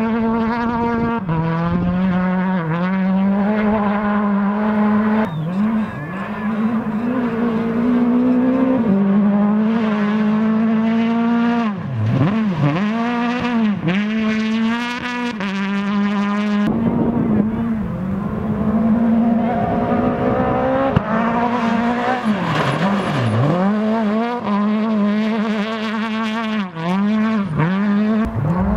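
Rally car engine running hard at high revs, its pitch dropping sharply and climbing back again and again as the driver lifts, shifts and accelerates through the stage.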